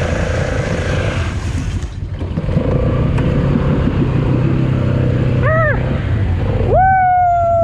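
Polaris ATV engine running under load as it drives through a deep, wet rut, with a dip around two seconds in; the engine keeps running, helped by the raised air-intake risers. A short high-pitched sound comes about five and a half seconds in, and a louder one held for about a second near the end.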